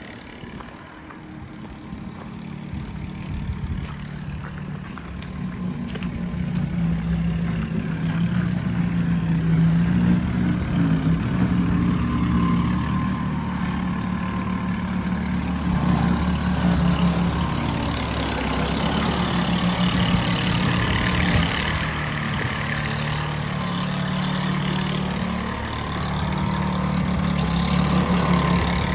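Large vehicle engine running close by, a low hum that grows louder over the first several seconds and then holds steady, shifting slightly in pitch now and then.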